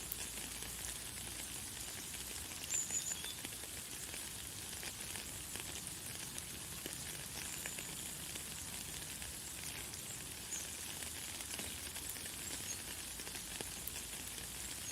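Light, fine rain falling steadily: an even hiss with many small drop ticks. A few short, high bird chirps come through, the clearest about three seconds in.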